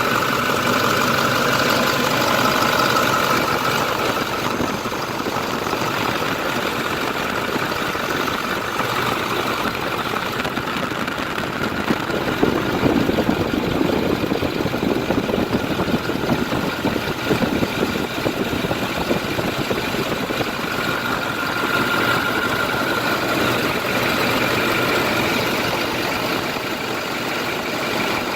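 Diesel engine of a 2010 International DuraStar 4300 medium-duty truck idling steadily, louder and rougher for a few seconds midway.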